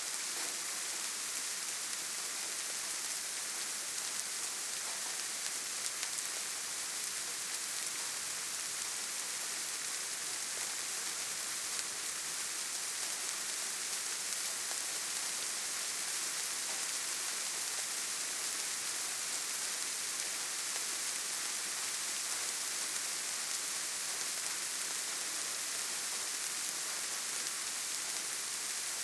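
Steady rainfall in a forest: an even hiss of rain, with faint scattered drop ticks.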